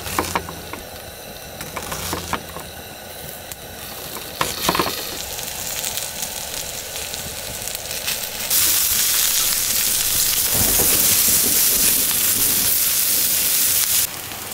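A few knife strokes knock on a wooden cutting board while slicing an onion, over a low frying hiss. About eight seconds in, loud, even sizzling starts as diced onion fries with bacon and potatoes in a hot cast-iron skillet, then cuts off suddenly near the end.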